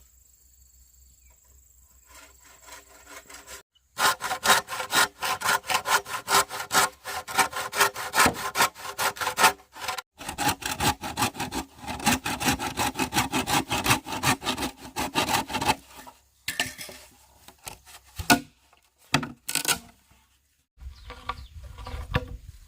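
Hand saw cutting through bamboo in rapid back-and-forth strokes. It starts about four seconds in, pauses briefly, runs on until about two-thirds through, then a few separate strokes follow.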